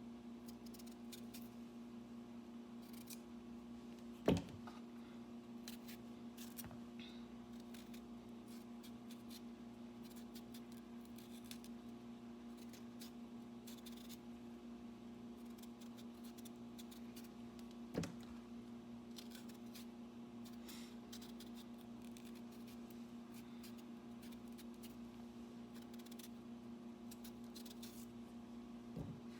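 Irish potatoes being peeled by hand: many short scraping strokes of the blade against the skin, with a few louder knocks, the loudest about four seconds in.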